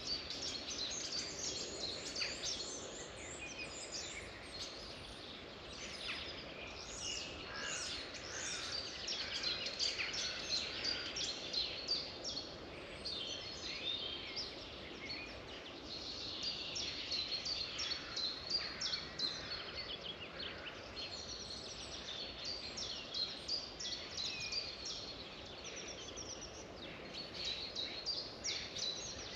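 Many birds chirping and singing at once in a dense chorus of quick chirps and short trills, over a steady background hiss.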